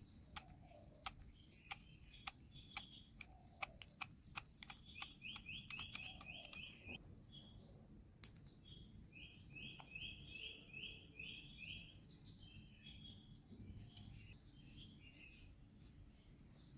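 Faint bird chirping in quick repeated runs, twice, with scattered sharp clicks, most of them in the first half.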